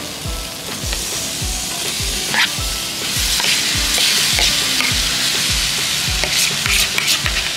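Seasoned chopped conch is scraped from a bowl into a hot stainless-steel pan of curry paste with a metal spoon. It sizzles in the pan, and the sizzle grows louder about three seconds in as the meat lands. Background music with a steady low beat plays underneath.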